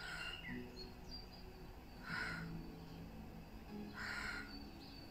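Three harsh bird calls about two seconds apart, with faint high chirps between them, over soft background music.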